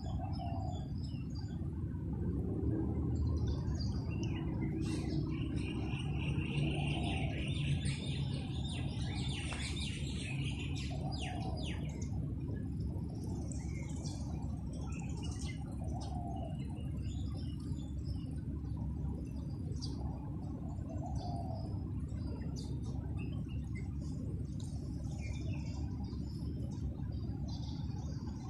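Wild birds chirping and trilling, busiest in the first half. A lower call repeats about every five seconds, all over a steady low rumble.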